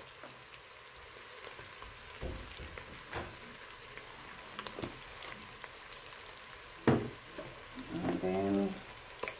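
Beef cubes, onions and spices frying in a stainless steel pot with a steady sizzle, broken by a few sharp knocks, the loudest about seven seconds in.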